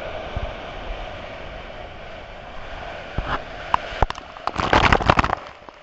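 Steady rush of sea surf and wind, then a run of sharp crackling knocks and clicks from about three seconds in, loudest shortly before the end.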